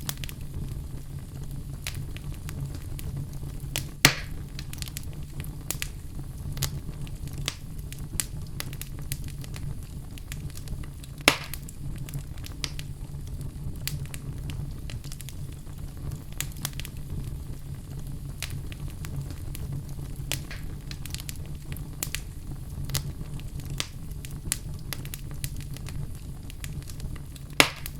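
Wood fire burning in a fireplace: a steady low rumble of flames under frequent sharp crackles. Three louder pops stand out, about 4 seconds in, about 11 seconds in and near the end.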